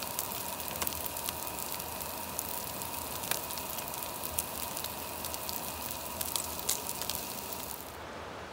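Meat and tortillas sizzling on a hot flat-top griddle: a steady frying hiss full of small crackles and pops, which stops near the end.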